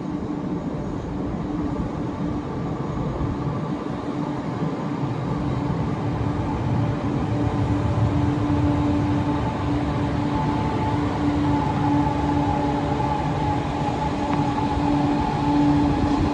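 Lagos Blue Line electric metro train running, a steady rumbling din with a constant whine in it, growing slowly louder.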